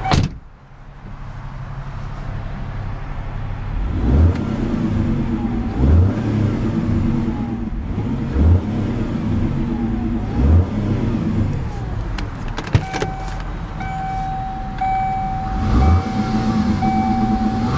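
2001 Mercury Cougar's 2.5-litre DOHC 24-valve V6 idling, with its throttle blipped into quick revs about every two seconds, around half a dozen in all. A sharp click sounds at the very start, and a steady electronic warning beep sounds over the engine in the second half.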